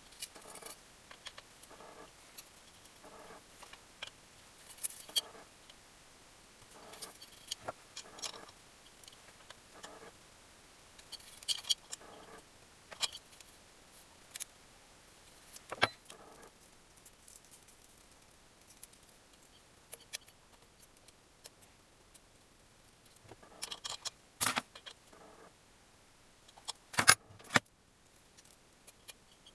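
Small metal engine parts and hand tools clinking, jingling and tapping at irregular intervals while an engine is assembled by hand, with a sharper clank about 27 seconds in.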